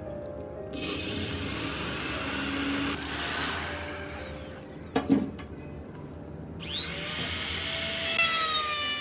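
A handheld power tool running on the sword's steel, its pitch sweeping up and down as it speeds up and slows. There is a sharp knock about five seconds in.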